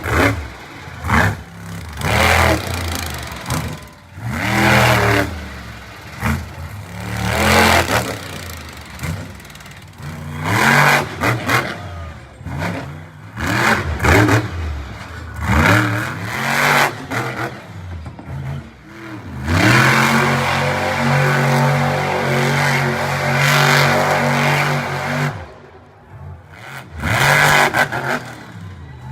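Monster truck engine revving hard in repeated bursts, pitch climbing and dropping each time, then held at high revs for about six seconds before a few more short revs.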